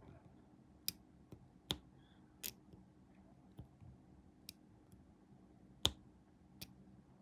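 Small, sharp, irregular clicks and taps of tools and small plastic model-kit parts handled on a workbench, about eight in all, the loudest near six seconds in.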